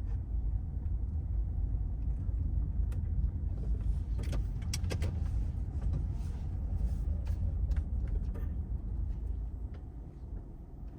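Car driving, a steady low rumble of road and engine noise with a few sharp clicks about four to five seconds in, fading out near the end.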